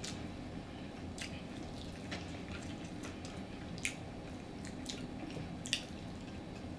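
A person chewing food, with scattered wet mouth clicks and smacks about a second apart.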